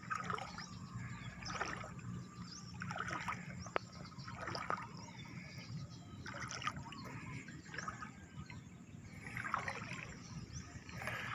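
Faint water splashing and trickling, one soft splash every second or two.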